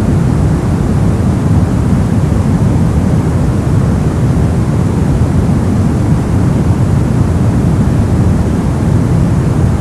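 Brown noise: a steady, deep rushing hiss with most of its energy in the lows and little treble, unchanging throughout.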